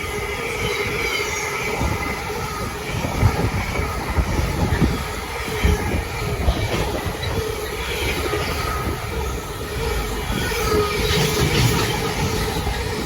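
A train running through the station on the main line: a continuous rolling rumble with irregular knocks from the wheels over rail joints and steady high-pitched tones from wheels or traction running over it.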